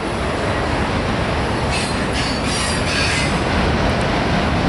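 Freight train autorack cars rolling past: a steady rumble and rattle of steel wheels on the rails, with brief high screeching from the wheels about two to three seconds in.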